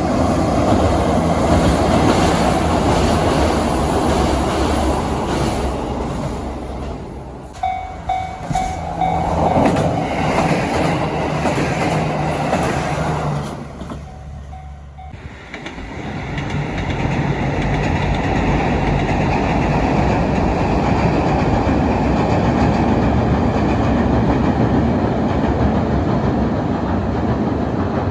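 Trains passing over rail joints, the wheels beating out a rhythmic clickety-clack, in successive passes with changes about 7 seconds in and again about 15 seconds in. A short repeating tone sounds between about 8 and 10 seconds and again around 14 to 15 seconds.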